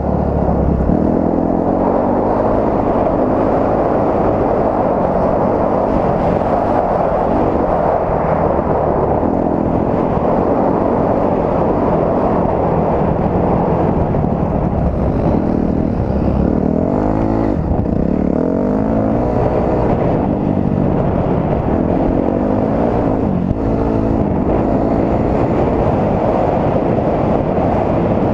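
Dirt bike engine running while riding, its pitch rising and falling several times with the throttle, under a heavy rush of wind on the microphone.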